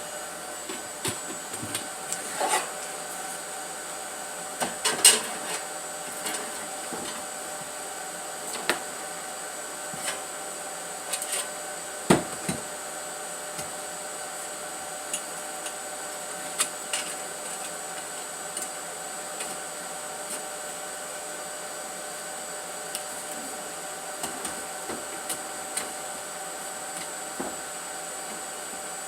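A steady machine hum with a high whine, over scattered knocks and clicks of metal parts being handled. The two loudest knocks come about five and twelve seconds in.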